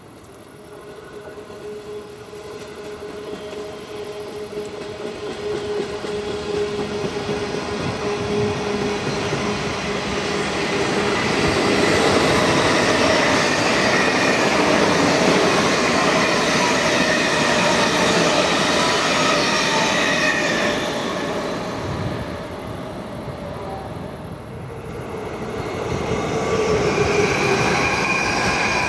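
Train passing on an electrified main line: a rumble of wheels on rail with a steady whine over it, growing louder over the first dozen seconds and holding at its loudest for several seconds. The sound dips briefly, then swells again near the end as more train noise builds.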